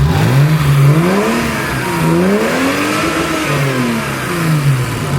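Car engine revving: the pitch climbs and drops back twice, the second rev longer and higher than the first.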